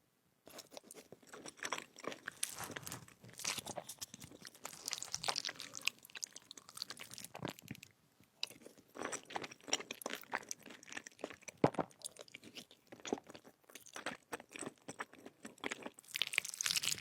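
Close-miked eating: crunchy bites and chewing, a dense run of crackling crunches. A brief gap about eight seconds in, and one sharp crack a little before twelve seconds stands out as the loudest.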